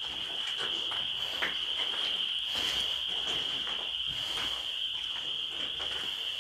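A steady, unbroken chorus of crickets trilling, with faint scattered ticks beneath it.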